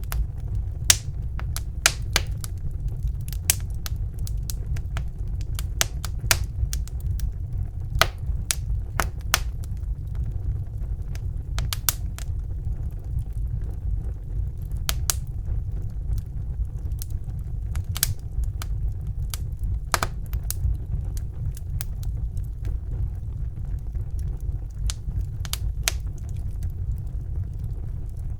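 Wood fire burning in a fireplace with a steady low rumble, crackling and popping in irregular sharp snaps throughout.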